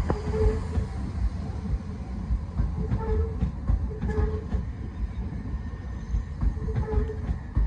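Southern Class 377 Electrostar electric multiple unit rolling slowly past, with a low rumble from the bogies and irregular knocks as the wheels cross rail joints and points.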